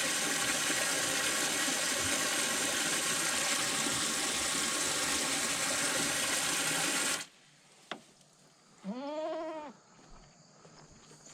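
Water gushing steadily from a hose into a livestock water trough, cut off abruptly about two-thirds of the way through. A single click follows, then one short goat bleat near the end.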